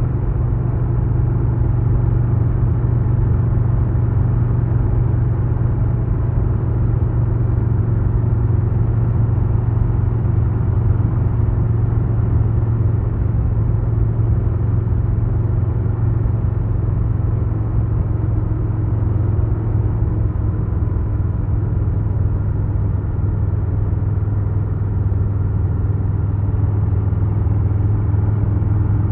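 2022 Harley-Davidson Low Rider S's Milwaukee-Eight 117 V-twin running at a fairly steady speed while riding, a deep continuous exhaust note with only a slight change in pitch partway through.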